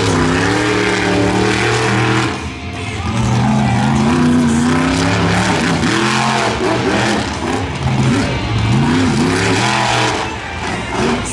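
Monster truck's supercharged V8 engine revving hard and repeatedly, its pitch climbing and dropping again and again as the throttle is worked. It eases off briefly about two seconds in and again near the end.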